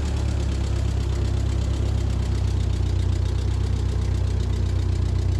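1948 Ford 8N tractor's four-cylinder flathead engine running steadily at low revs, with an even, rapid pulsing beat.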